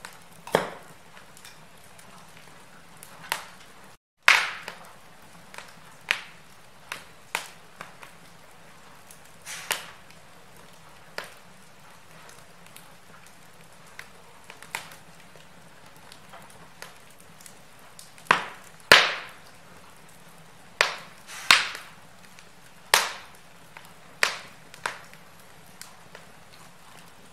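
Wood fire crackling in a fireplace: irregular sharp pops and snaps, some much louder than the rest, over a faint steady hiss. The sound cuts out completely for a split second about four seconds in.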